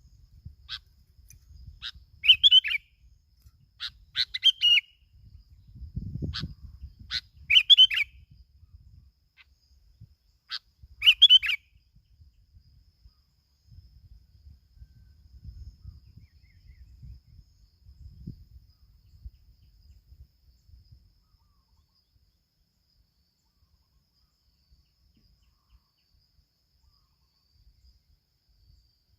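A bulbul calling: about four loud, short chirping calls mixed with sharp clicky notes over the first twelve seconds, then the bird falls silent and only a faint low rumble remains.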